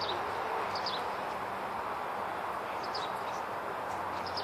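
Small birds chirping briefly a few times over a steady outdoor background hiss.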